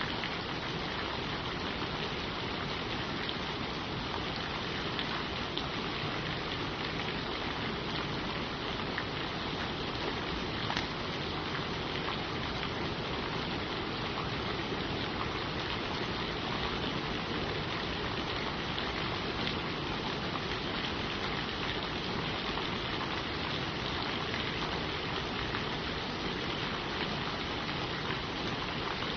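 Steady rain falling on leaves, an even patter without pauses or thunder.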